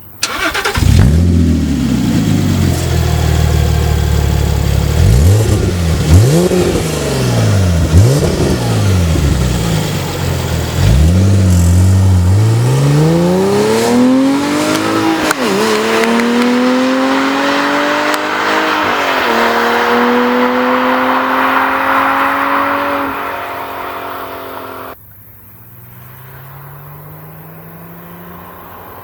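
Porsche 987 Mk2 Boxster flat-six through a CARGRAPHIC sport rear silencer exhaust with exhaust flaps, revved up and down several times, then accelerating hard with two upshifts. About four seconds before the end the sound drops abruptly to a much quieter engine note that slowly rises.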